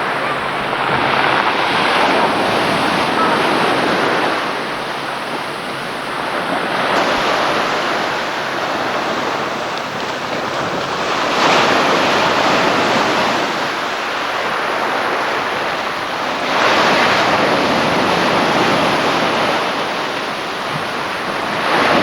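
Sea surf: waves washing onto the shore, a steady rush of water that swells and eases every few seconds.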